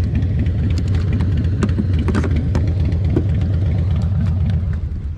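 Motorcycle engine running at idle with a low, pulsing rumble that drops in level near the end.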